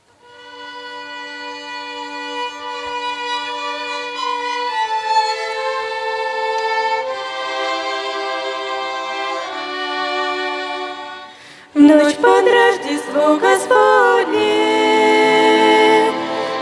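Children's violin ensemble playing an instrumental introduction. It fades in on long held chords that change every few seconds, and about twelve seconds in it turns suddenly louder and fuller, with vibrato and a moving melody.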